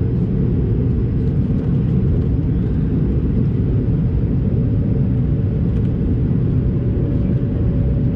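Cabin noise inside an Airbus A220-300 in flight: a steady low roar from its Pratt & Whitney geared turbofan engines and the airflow over the fuselage. A faint steady hum joins about five seconds in.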